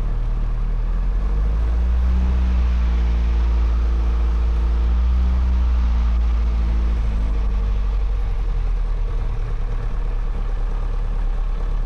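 Light aircraft's piston engine running at low taxi power before the takeoff run. Its pitch rises a little about a second in, holds, and drops back after about seven seconds.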